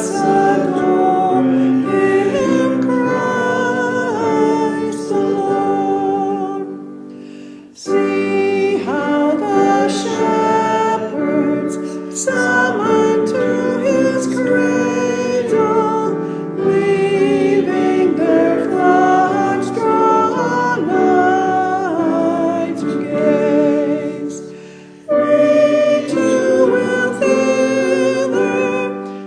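Choir singing a hymn with piano accompaniment, in phrases with brief breaths between them about seven and twenty-five seconds in.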